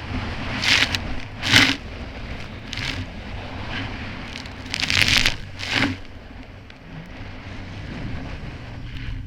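Kawasaki Ultra 300X jet ski's supercharged four-cylinder engine running steadily while the craft crosses choppy water, with five short loud bursts of splashing spray as it hits the chop.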